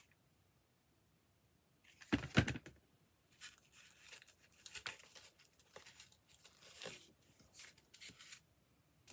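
Craft paper being handled, rustling and crinkling in short scratchy bursts, with one louder knock on the work table about two seconds in.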